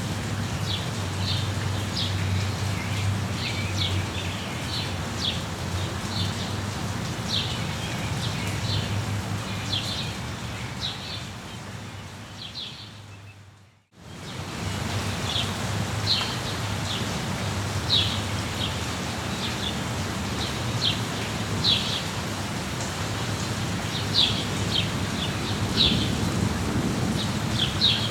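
Steady rain with a low rumble beneath it, and a small bird calling over it in short, high chirps repeated every second or so. About halfway through, the whole sound fades out to silence and fades straight back in.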